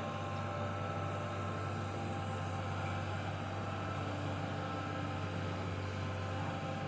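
Sany hydraulic excavator's diesel engine running steadily, a constant low hum with a few steady higher tones over it.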